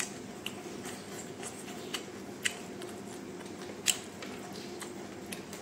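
A man chewing chicken fingers close to the microphone: short sharp mouth clicks come irregularly, a few a second at most, with louder ones about two and a half and four seconds in.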